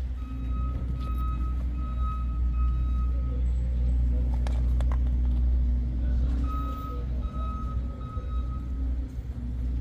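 Ford 429 Super Cobra Jet big-block V8 idling with a deep, steady rumble. A high-pitched tone sounds in a string of short beeps, twice.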